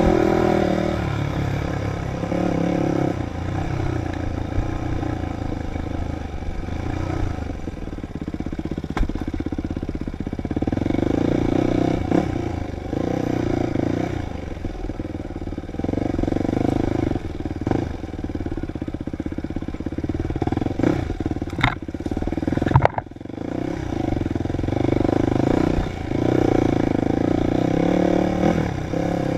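Dirt bike engine on an enduro trail, revving up and falling back again and again as the throttle opens and closes. A few sharp knocks and clatters come about three-quarters of the way through.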